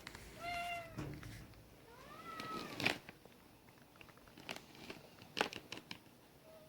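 A domestic cat meowing: a short call, then a longer one that rises and falls, with a faint brief call near the end. A few sharp light clicks or taps come in between.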